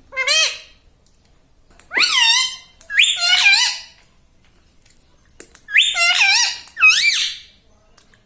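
Pet parrot giving five shrill squawking calls, each swooping up and down in pitch: one at the start, two together about two to four seconds in, and two more about six to seven seconds in.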